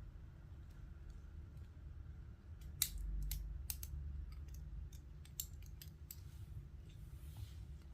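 Plastic Lego bricks clicking and snapping as pieces are handled and pressed together, a scattering of sharp clicks bunched in the middle few seconds over a low steady hum.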